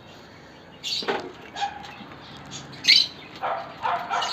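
Cockatiels calling: a series of short calls, the loudest a sharp rising whistle about three seconds in.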